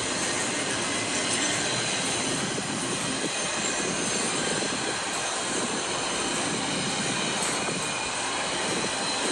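Intermodal freight cars rolling past: a steady rush of steel wheels on rail.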